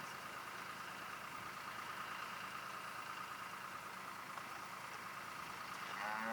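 Steady background hiss with a faint low hum. Near the end a cow begins a long moo.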